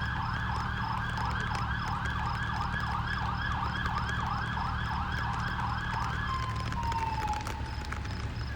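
Emergency-vehicle siren on a rapid yelp, about three sweeps a second. About six seconds in it stops yelping and winds down in one falling tone. A steady low rumble runs underneath.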